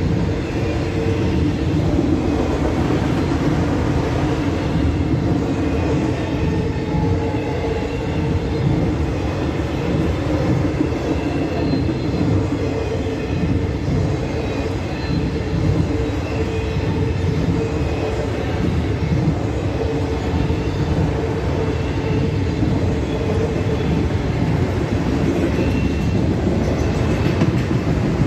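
Manifest freight train rolling steadily past close by: a continuous rumble and rattle of wheels on the rails, with faint high squeals coming and going.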